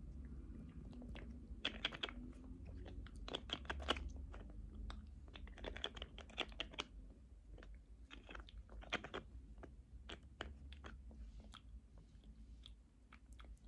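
Close-miked ASMR mouth sounds: wet lip smacks and mouth clicks in quick clusters, thinning out near the end.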